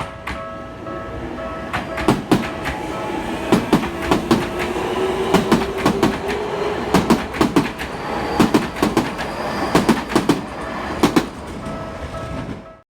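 Tokyu 6000 series electric train passing over a level crossing, its wheels clacking irregularly over the rail joints over a steady whine. The crossing's warning bell rings at the start and again near the end, and the sound cuts off suddenly near the end.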